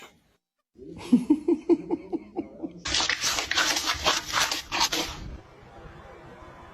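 A person laughing in quick repeated bursts: first a run of voiced "ha-ha" pulses, then louder, breathy wheezing laughter, which stops about five seconds in.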